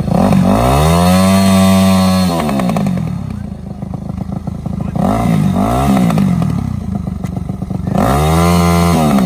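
Dirt bike engine revved hard and held near the top, dropping back after about two seconds, then two short blips, then revved and held high again near the end. The bike is stuck in the sand and is not pulling free.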